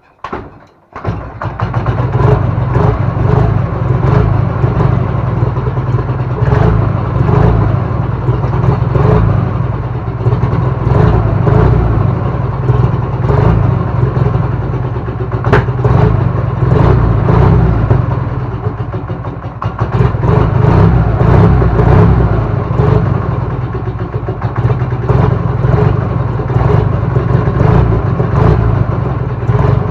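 Ural IMZ 8.103.10 motorcycle's flat-twin engine catching about a second in on a cold start in the frost, on choke after standing two months. It then runs on loudly, its level rising and falling.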